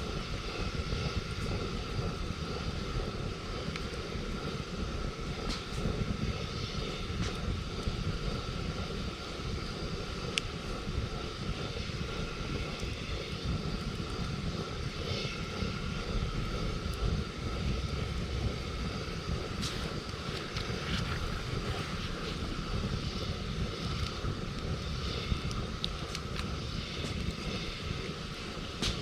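Wood campfire crackling with scattered sharp pops, over a steady low rumble.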